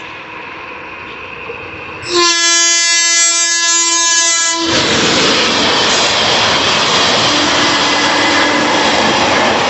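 An Indian Railways locomotive horn sounds one long, steady blast about two seconds in, lasting a couple of seconds. As it stops, the loud rushing rumble of the train takes over.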